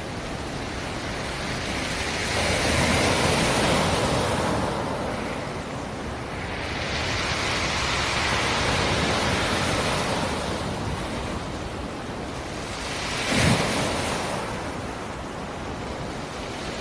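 Black Sea surf: waves wash in and break in two broad swells of hiss, then a sharper, brief crash about thirteen seconds in.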